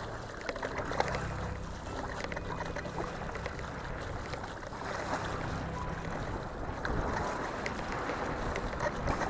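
Water splashing and lapping around a Yermak 380 kayak moving down the river, with wind buffeting the microphone.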